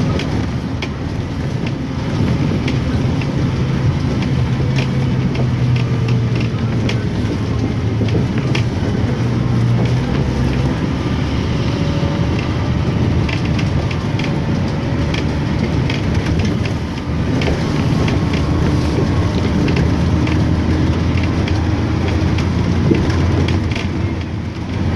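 Car driving over a rough, wet road: steady engine and road noise with frequent short knocks and clicks.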